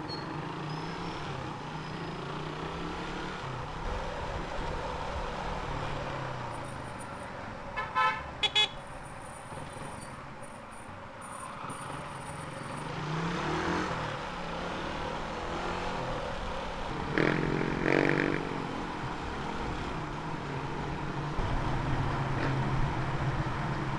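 Motorcycle ride through congested traffic: a steady engine and road rumble, with short vehicle horn honks, two quick toots about eight seconds in and another honk, in two parts, around seventeen to eighteen seconds in.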